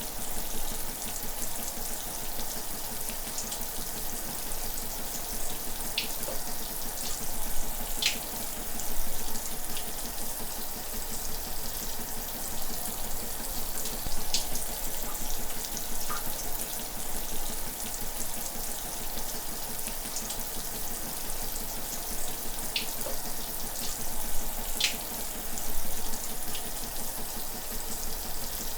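Shower running steadily: an even hiss of water spray, with a few brief splashes of drops now and then.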